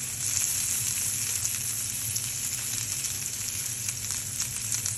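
Ahi tuna steak searing in oil in a frying pan over high heat, sizzling with a steady hiss and small crackles.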